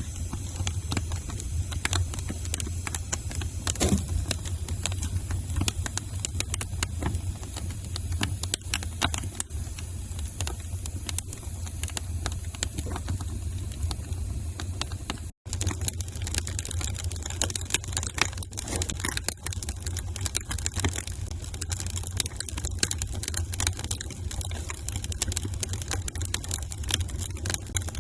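Wood fire crackling in a fireplace: many small irregular pops and snaps over a steady low rumble of the flames. The sound cuts out for an instant about halfway through.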